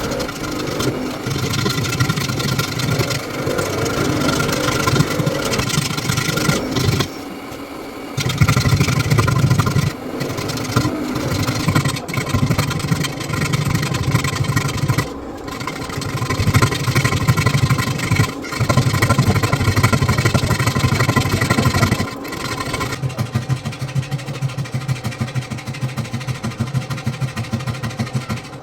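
A workshop power tool's motor running loudly in long stretches, cutting out briefly several times; near the end it becomes a fast, pulsing chatter.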